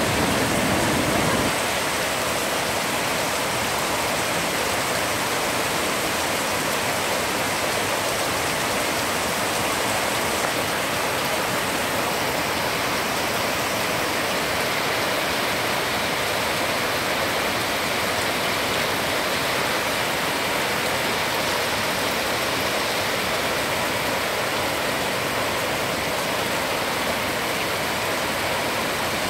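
A rain-swollen waterfall in spate, its water pouring down in a steady, even rush. There is a short low rumble at the very start.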